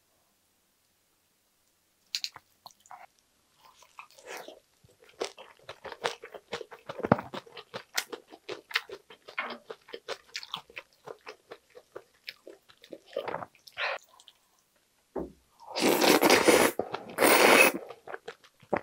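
Close-miked chewing of a lettuce wrap of spicy pork gopchang, with many small wet crunches and clicks. About fifteen seconds in come two loud, long slurps as glass noodles are sucked into the mouth.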